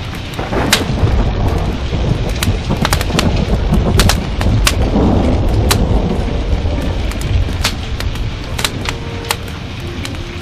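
A long roll of thunder swells up, peaks mid-way and fades, over steady rain, while a log fire gives sharp pops and crackles throughout.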